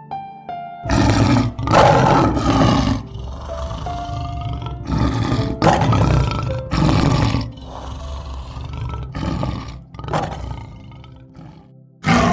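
A big cat roaring in a series of loud, separate calls, about eight or nine in all, over background music.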